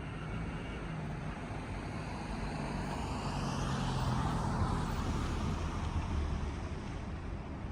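Motor vehicle noise: a steady rumble that grows louder about three to five seconds in, then eases back a little.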